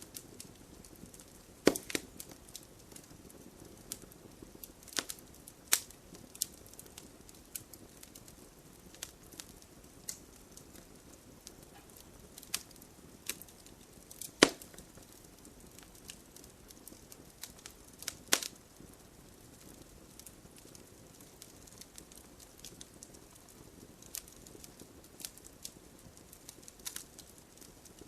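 Campfire burning: wood crackling and popping at irregular intervals over a low steady hiss of the flames, with a few louder sharp pops.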